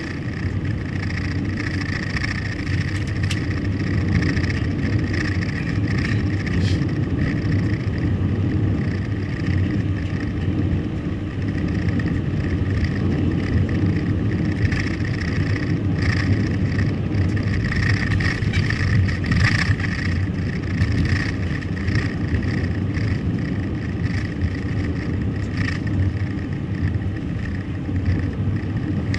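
A car driving: steady road and engine noise, with scattered faint clicks and knocks.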